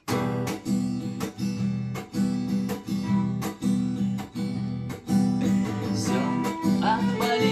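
Acoustic guitar strumming chords in a steady rhythm as an instrumental intro, with a violin coming in with sliding notes about two thirds of the way through.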